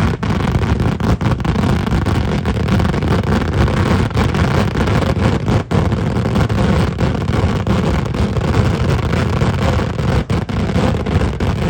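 Temple-festival fireworks (vedikkettu) in a dense continuous barrage: explosions coming so fast that they merge into one unbroken deep rumble.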